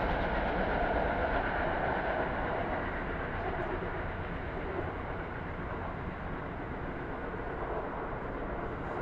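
NJ Transit commuter train rumbling along the rails, its noise slowly fading as it moves away.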